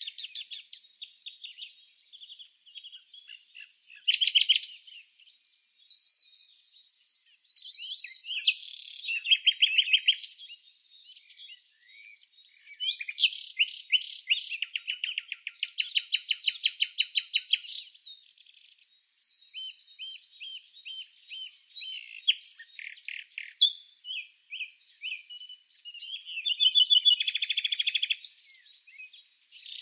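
Songbirds singing: a continuous run of varied chirps and rapid trills, phrase after phrase with short pauses between them.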